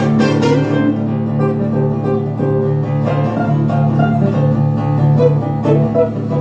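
Instrumental music with a plucked acoustic guitar to the fore over sustained low notes.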